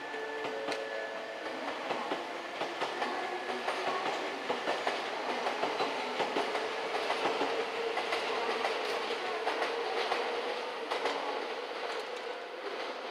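Electric commuter train running along the track, its wheels clicking over rail joints in a rapid, uneven clatter, with a steady whine underneath. The clatter is loudest in the middle and eases off near the end.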